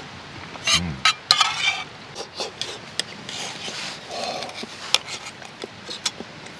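Utensils clinking and scraping against metal cookware, with scattered sharp clicks and short scrapes, busiest in the first two seconds.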